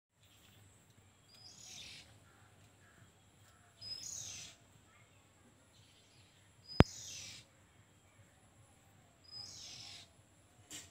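A bird calling four times, about every two and a half seconds: each call is a short high note followed by a falling, rasping sweep lasting about half a second. A single sharp click comes about halfway through.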